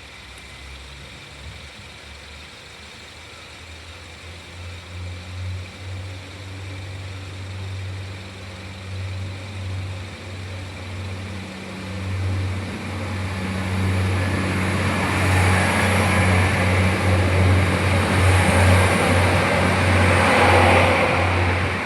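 A motor vehicle's engine running with a steady low hum, drawing closer and growing louder through the second half, with a rising rush of noise peaking near the end.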